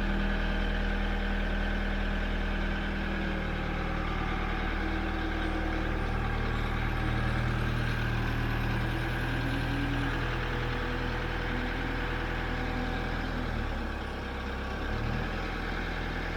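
A motor vehicle's engine running steadily, its pitch shifting a few times, with a brief dip in level near the end.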